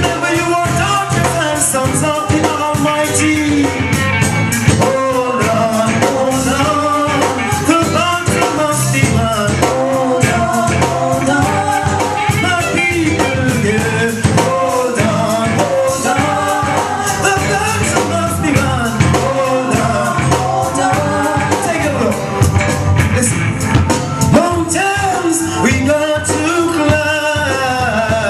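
Live reggae band playing with a steady beat and a wavering melodic lead line above it.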